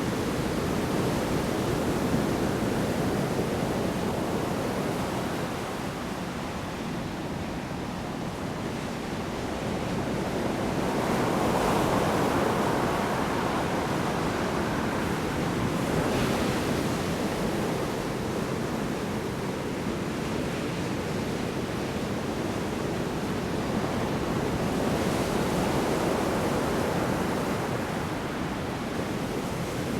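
Large storm waves breaking on a shore: continuous roar of surf that swells as waves crash, about twice over these seconds.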